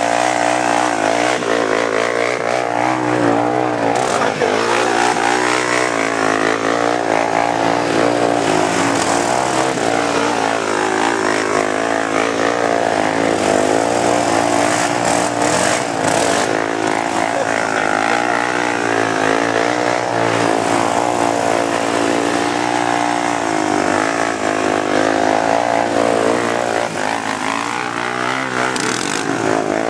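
Vehicle engines running hard and revving, their pitch rising and falling continuously throughout.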